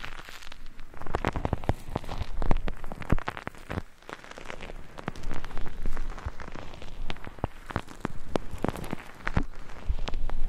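Close-miked ASMR trigger sounds: a dense, irregular patter of crackling clicks and scratches right against the microphone, rising and falling in strength.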